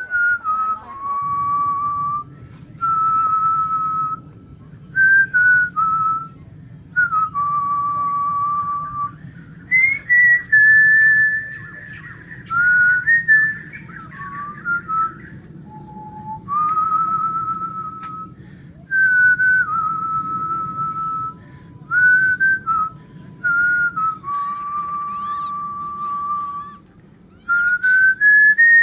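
A person whistling a slow tune, long held notes stepping up and down in pitch, over a steady low background hum.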